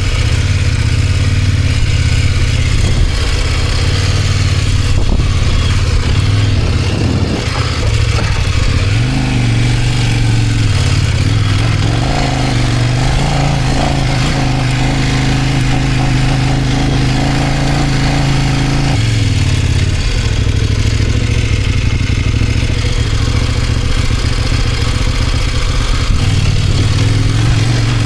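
Kove 800X Pro motorcycle's parallel-twin engine running under way at light load and modest revs while being broken in, with wind and road noise. The engine note drops around seven seconds in, climbs again a couple of seconds later, holds steady, then falls again near nineteen seconds.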